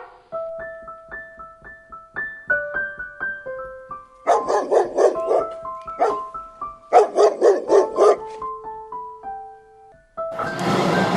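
Dog barking in two quick runs of short, rapid barks over a gentle piano melody. Near the end, a loud noisy sound comes in.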